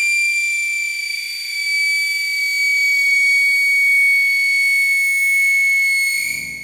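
Whistling firework giving one long, steady high-pitched whistle with strong overtones, its pitch sagging slightly before it dies away about six seconds in.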